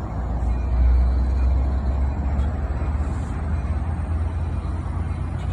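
Low steady rumble of a diesel locomotive, swelling slightly about a second in.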